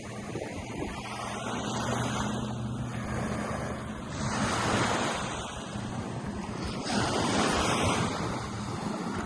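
Gulf surf washing onto the beach, the wash swelling twice as waves break, about four and seven seconds in, with a faint steady low hum underneath through the first half.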